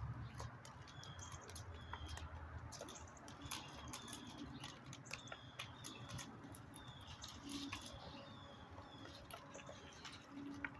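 Small birds chirping: many quick, high, short calls overlapping one another, mixed with light clicks and taps.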